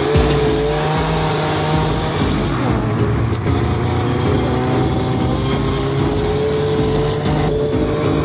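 Snowmobile engine rising in pitch as it speeds up, then running at a steady, slowly drifting speed.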